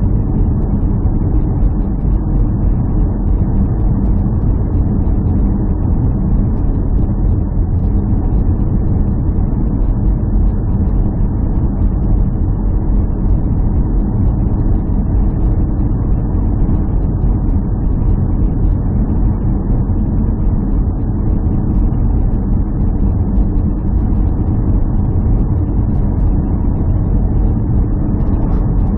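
A steady low engine drone with an even hum that neither rises nor falls.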